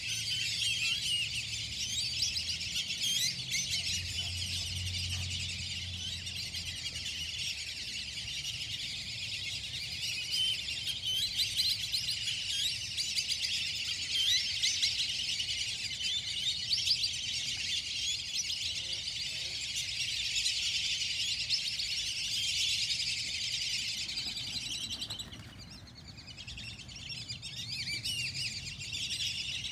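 A dense morning chorus of many small birds chirping and tweeting at once, thinning briefly near the end before picking up again.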